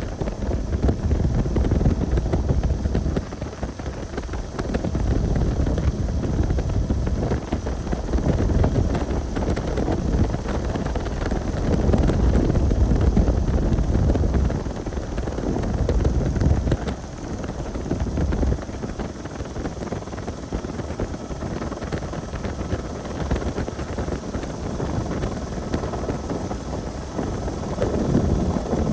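A low, uneven rumble that swells and eases every few seconds, with wind buffeting the microphone.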